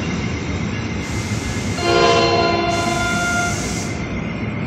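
Bi-level commuter train rolling past with a steady rumble of wheels on rail. About two seconds in, a train horn sounds a chord of several notes for about a second and a half, the loudest thing heard.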